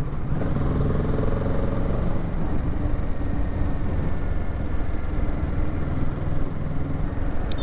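Kawasaki Z650's parallel-twin engine running steadily as the motorcycle rides along, under a dense low rumble.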